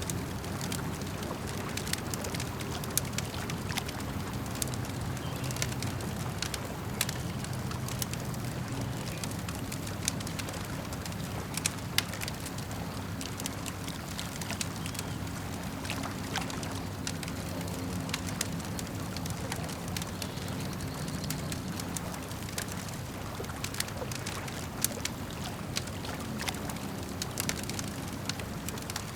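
Campfire crackling, with many sharp pops and snaps scattered irregularly throughout, over a steady low wash of lake water lapping.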